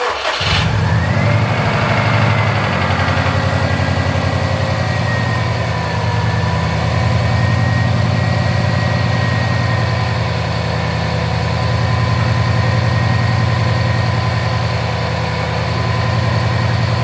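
Subaru WRX's turbocharged flat-four boxer engine starting, catching almost at once, then idling steadily, with a BG EPR engine flush in its oil.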